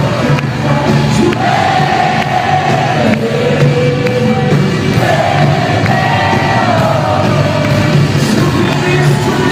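Live worship band with a crowd singing along, long drawn-out sung notes over a full band, as heard by a recording in a large hall.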